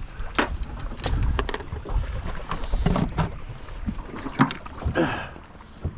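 Wind buffeting the microphone and choppy water against the hull of a small anchored boat, with a low rumble and a few sharp, irregular knocks and clicks.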